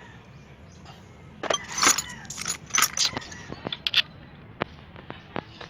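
Small metal objects clinking and rattling against each other, such as tools or parts being handled during repair work. There is a quick cluster of sharp clinks from about one and a half to four seconds in, then a few single ticks.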